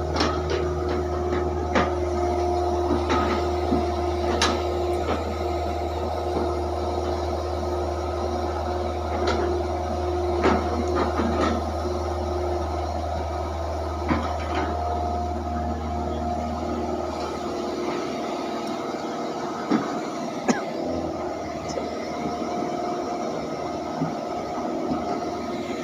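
Hydraulic excavator at work: a steady engine drone with a whining hydraulic tone over it, and frequent knocks and clatters. The low engine drone drops away about two-thirds of the way through while the knocks and whine go on.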